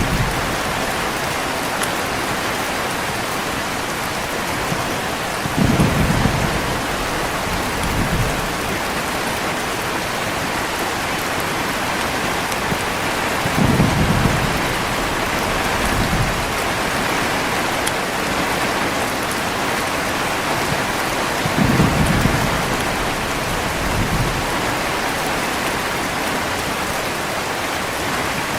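Heavy rain falling steadily, with low rolls of thunder. The thunder swells three times, about every eight seconds, and each roll is followed by a smaller one about two seconds later.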